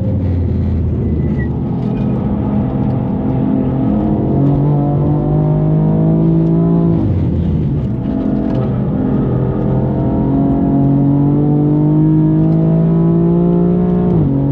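Tuned BMW M4 with upgraded turbos, engine pulling hard under load, its pitch climbing slowly through each gear. Two upshifts, each a sudden drop in pitch: one about halfway through and one near the end.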